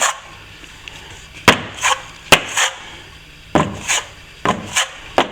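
Hand plastering tools knocking and scraping, about ten short, sharp strokes at uneven spacing, as plaster is worked on for a second coat.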